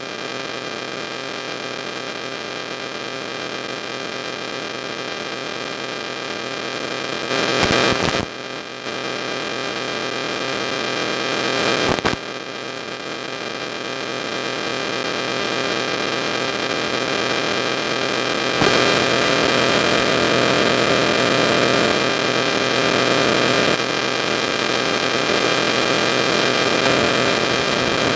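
Steady electrical hum and static hiss with several fixed tones held underneath, jumping abruptly in level a few times.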